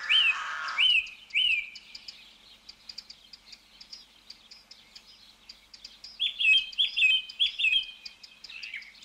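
Songbirds calling: a short rising-then-falling chirp repeated about four times in the first two seconds, then a quick twittering run of notes from about six seconds in.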